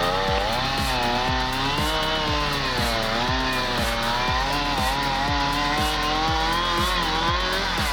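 Two-stroke chainsaw running, its pitch rising and falling as the load on the chain changes, over background music with a steady beat.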